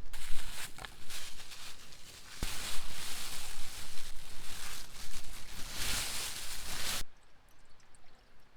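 Rustling and handling noises with scattered clicks and knocks, cutting off abruptly about seven seconds in.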